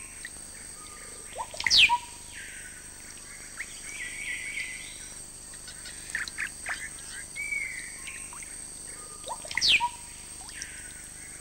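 Tropical forest birds calling: scattered chirps and short calls, with a sharp descending whistle twice, about eight seconds apart, over a thin steady high tone.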